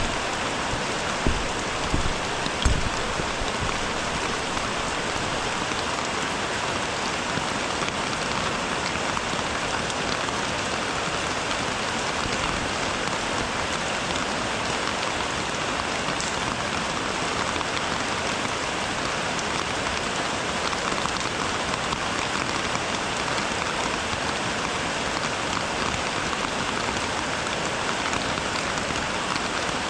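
Steady rain falling, an even hiss throughout. Three dull thuds come in quick succession between about one and three seconds in.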